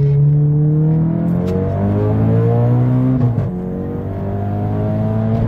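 Tuned Audi TT's turbocharged 2.0 TFSI four-cylinder under full-throttle acceleration, heard from inside the cabin, its note rising steadily. About three seconds in, a quick DSG upshift drops the pitch for an instant before it climbs again.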